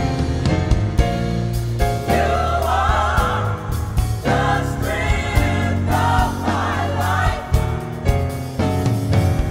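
Gospel music: a choir singing with a band, over a prominent bass line and a regular drum beat.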